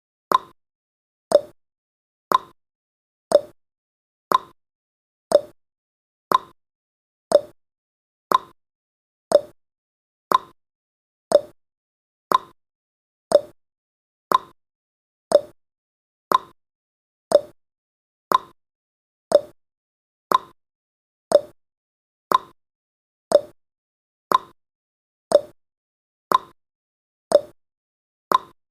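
Countdown timer's tick sound effect: one short, sharp click every second, steady and evenly spaced.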